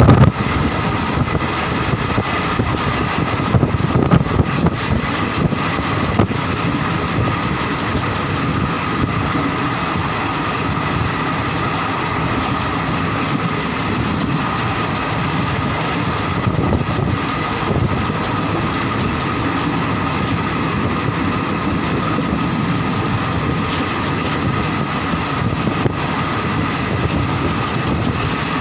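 Indian Railways passenger train running along the track: a steady rumble of wheels on rail with a faint whine above it and occasional clicks over rail joints.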